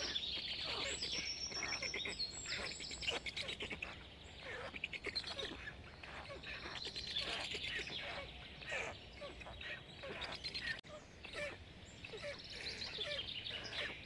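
Birds chirping: a dense, unbroken run of short, high calls, one after another.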